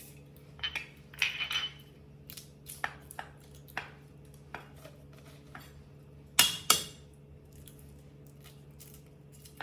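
Knife and utensils clinking and knocking while meat is being cut: a scatter of sharp taps, with two louder knocks about six and a half seconds in, over a steady low hum.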